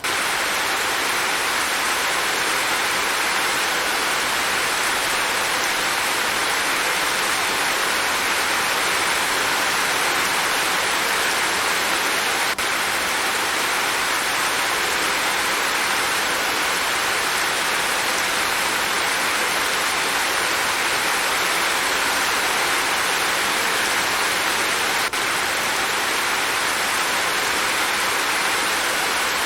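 Steady rain falling, a dense, even hiss of many drops with no breaks or change in strength.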